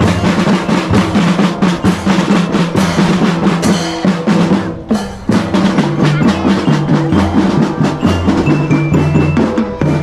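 Children's marching drum band playing: snare drums rolling over steady bass-drum beats, with many strokes a second and a brief break about five seconds in.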